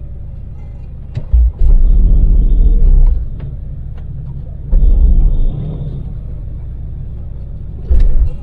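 Daewoo Damas mini van's small LPG engine and road noise while driving at expressway speed, a steady low rumble with a faint high whine. A much louder deep rumble swells up three times, about a second and a half in, near five seconds and just before the end, with a few sharp clicks.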